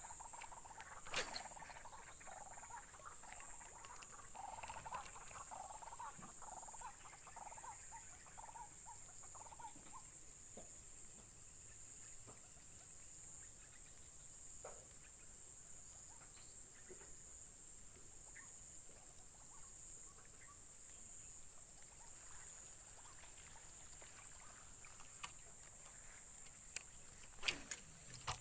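A steady high-pitched insect trill, with a chorus of frogs calling over it for the first ten seconds or so. Sharp knocks about a second in and twice near the end.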